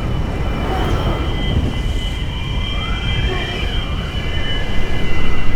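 Onboard a hydrofoiling F50 racing catamaran at speed: a steady rush of wind and water with several high, steady whines above it. A tone glides up and back down about halfway through.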